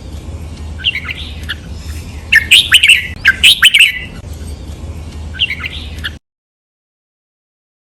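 Red-whiskered bulbul singing in short chirped phrases: a faint phrase about a second in, a loud run of notes from about two to four seconds, and another faint phrase, over a steady low hum. About six seconds in, the sound cuts off to dead silence.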